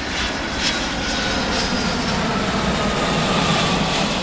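Airplane engine noise: a steady rush with a faint whine that falls slowly in pitch, as of a jet aircraft passing.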